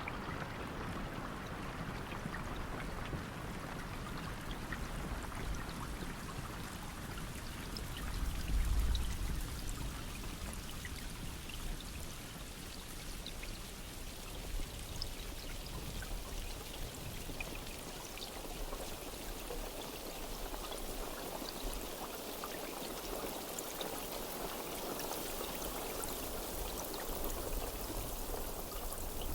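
Steady rain falling, with water pouring and running off. A brief low rumble swells about nine seconds in.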